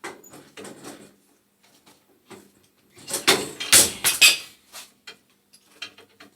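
Metal tools and gas-pipe fittings clanking and scraping as a boiler's gas piping is worked loose by hand, in irregular knocks with the loudest flurry about halfway through.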